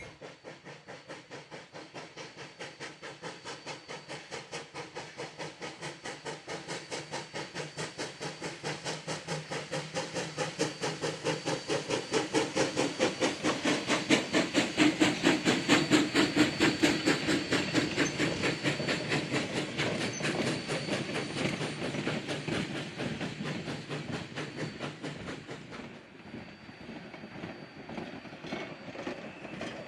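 Sierra No. 3, a 4-6-0 steam locomotive, working past with a fast, even exhaust chuff and steam hiss, growing louder to a peak about halfway and then fading as it draws away.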